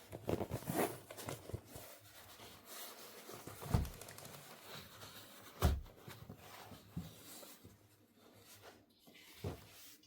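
Small plastic toy pieces and packaging being handled, rustling and crinkling at first, with three sharp knocks as pieces are set down, the second and third coming about two seconds apart.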